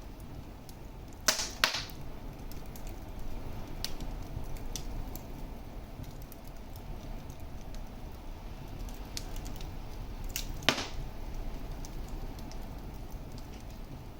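Wood fire burning in a fireplace with a low steady rumble and scattered small crackles, broken by loud sharp pops: two close together about a second in, and one more near the end.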